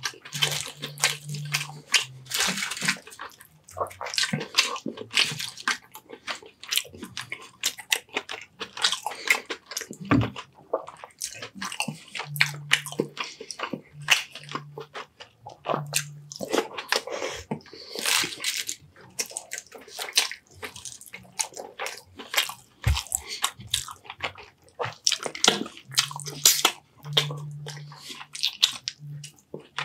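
Close-miked eating of baked sea bass and rice: a dense run of wet chewing, lip-smacking and crunching sounds, with a few short low hums now and then.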